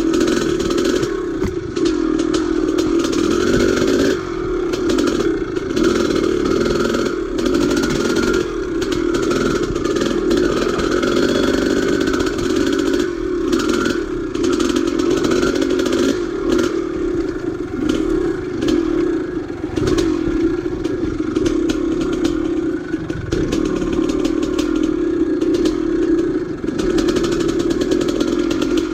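Old dirt bike's engine running steadily while being ridden on single track, with frequent short knocks and rattles.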